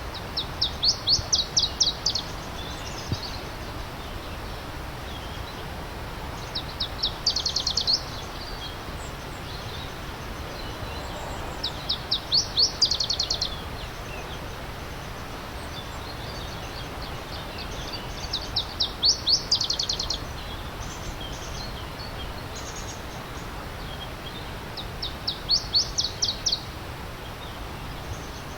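A songbird repeating a short, rapid trill of high notes five times, about every six seconds, each phrase lasting a second or two. Under it runs a steady hiss of stream water.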